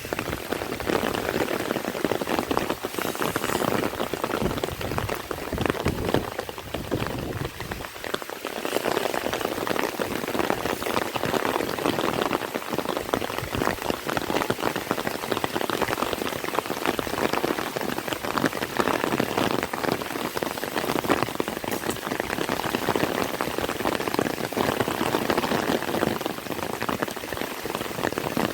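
Heavy rain falling steadily, a dense patter of drops that eases slightly for a moment about a third of the way in.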